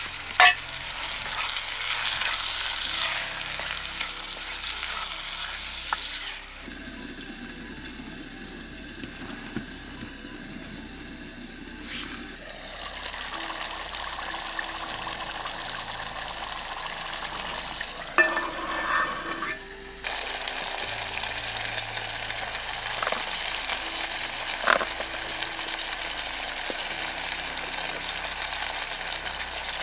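Onion-tomato gravy sizzling in a pot on a gas-canister camping stove, with a wooden spatula stirring it. It goes quieter for a few seconds about a third of the way through, and there is a short clatter a little past halfway.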